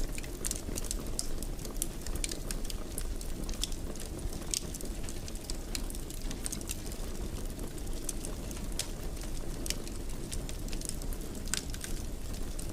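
Fire in a fireplace crackling: many irregular sharp snaps and pops over a steady low rumble of the flames.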